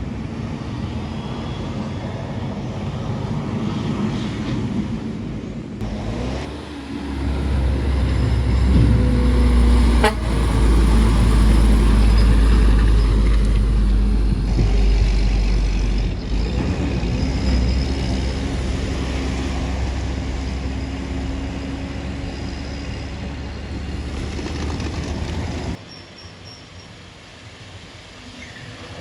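Heavy truck engine running hard on a steep hill: a loud, deep rumble that swells a few seconds in and cuts off suddenly near the end, with a horn toot in the middle.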